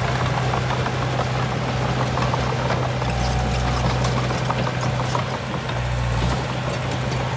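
Heavy diesel engine running steadily with a deep hum, its low rumble swelling and easing a few times, over scattered light clicks and rattles.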